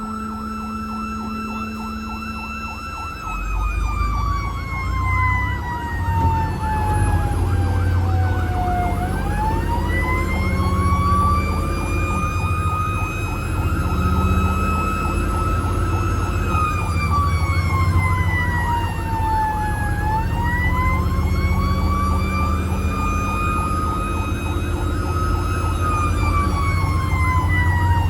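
Fire engine siren wailing: a steady tone that begins falling in pitch about three seconds in, then slowly rises and falls about every ten seconds. The fire truck's engine rumbles underneath, growing louder a few seconds in.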